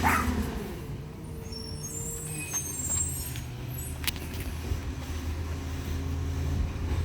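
Garbage truck engine running with a steady low hum, with a short hiss right at the start and faint high squeals in the first few seconds.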